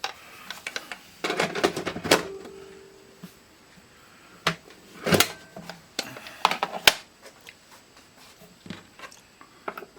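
Irregular clicks and knocks of an 8-track tape player and cartridge being handled and put back together by hand, the sharpest clacks about five and seven seconds in.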